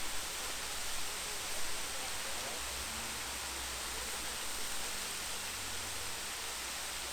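Waterfall: water falling and rushing as a steady, even hiss.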